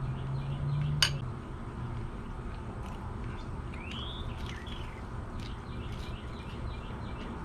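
A single sharp clink about a second in, like a fork striking a plate, then a bird giving two arched chirps around four seconds in. A low hum fades out after the first second.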